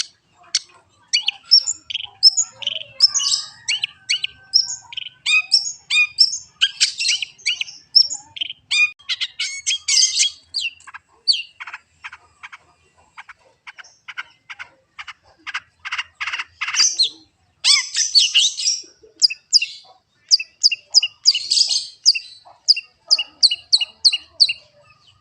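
Long-tailed shrike (cendet) singing a fast, varied, chattering song of short high notes, with a run of rapid dry ticking notes in the middle and evenly repeated paired notes, about four a second, near the end.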